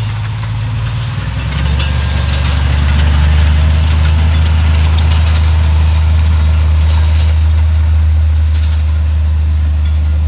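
Heavy diesel engine of earthmoving machinery running loud and steady. About a second and a half in, its low drone drops in pitch and grows louder, as under load, with light metallic clanks and rattles over it.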